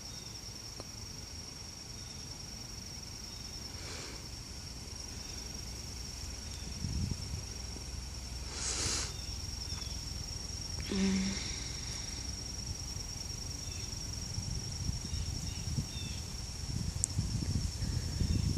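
Insects trilling in a steady, high, even pitch, a continuous late-summer cricket-type chorus, with a few brief rustles and low bumps of handling or wind noise, more of them near the end.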